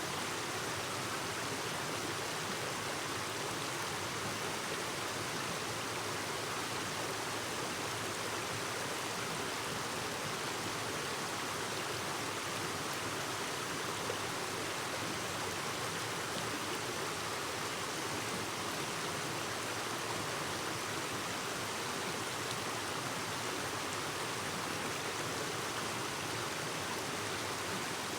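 Clear mountain stream babbling over rocks, a steady, even rush of water.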